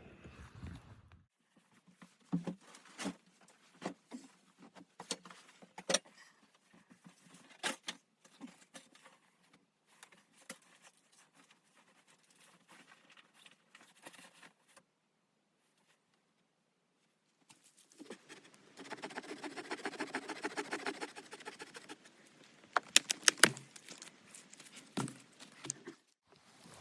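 Scattered small clicks and knocks, then a few seconds of near quiet, then several seconds of dense rattling and scraping, ending with a few sharp clicks.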